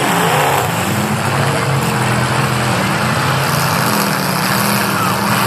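Demolition derby car engines running loud and revving, the pitch rising and falling in places.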